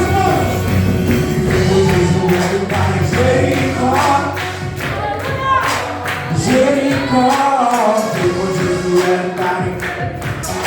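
Gospel praise song: a group singing with band accompaniment and a tambourine, recorded live in a church.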